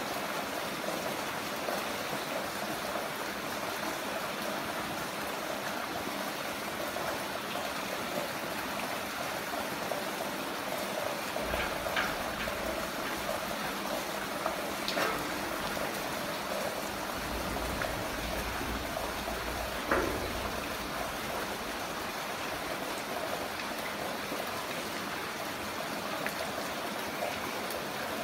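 Heavy rain falling steadily as an even hiss of water, with a few sharper drip or splash sounds standing out around the middle.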